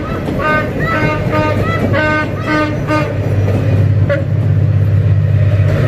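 A German-built diesel locomotive sounding its horn in a rapid string of short toots, about three a second, for roughly three seconds. Then the horn stops and the engine's deep, steady drone grows louder as it powers up.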